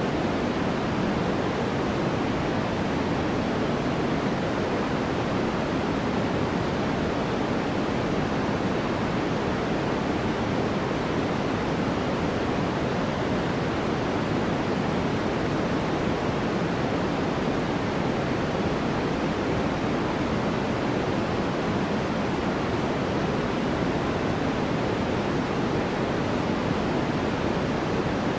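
Steady sleep-aid white noise: an even, unbroken hiss weighted toward the deeper end, with no rhythm and no change in level.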